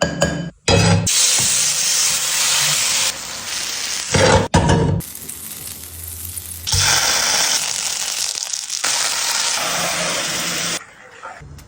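Food sizzling as it fries in a hot pan, a steady loud hiss broken into several segments by abrupt cuts.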